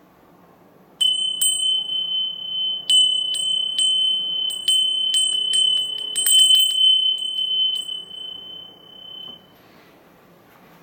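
A small high-pitched bell struck repeatedly and irregularly, about fifteen strikes with a bunch in quick succession in the middle. Each strike lets the single bright tone ring on, and the ringing fades away near the end.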